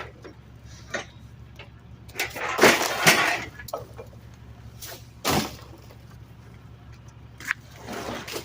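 Trash crashing into a garbage truck's hopper, with a loud burst of clattering and breaking about two to three seconds in and a sharp bang a little after five seconds, over the truck's low steady engine hum.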